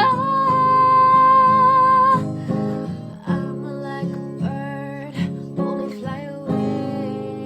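Acoustic guitar strumming under a held, wavering sung note that ends about two seconds in; the guitar then plays on alone, slowly getting quieter, as the song winds down.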